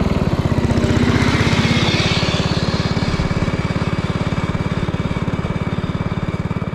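Small gasoline engine running steadily, with rapid, even firing pulses; it fades near the end.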